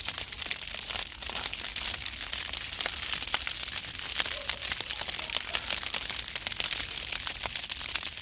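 Continuous crinkling and rustling of camping gear being handled inside a small tent, made up of many small crackles.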